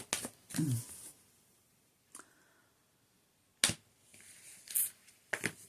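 A brief low vocal sound, then a few isolated sharp clicks over quiet room tone.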